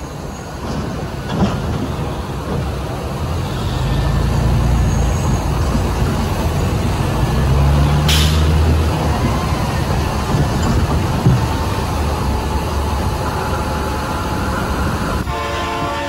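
Loud, low rumble of a train that can be heard but not seen, with a deep steady drone that swells from about four seconds in.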